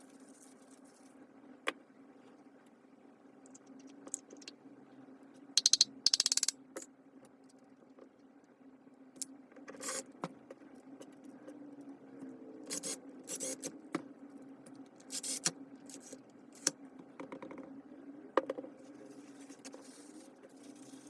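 Hands working on a disassembled disc grinder: scattered scrapes, clicks and small metal clinks, with a loud quick rattle about six seconds in.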